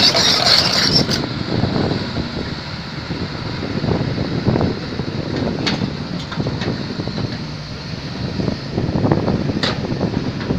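Excavator's diesel engine running with a low, uneven rumble, with a few short sharp clicks about halfway through and once near the end.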